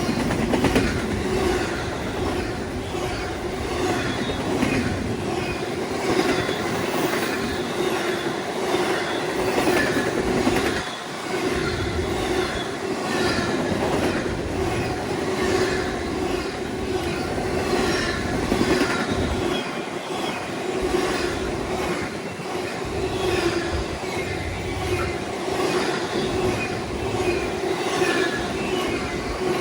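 A train rolling past, its cars' wheels clattering steadily over the rails, with short high wheel squeals scattered throughout.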